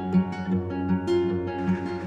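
Background music: plucked acoustic guitar picking a gentle pattern of notes.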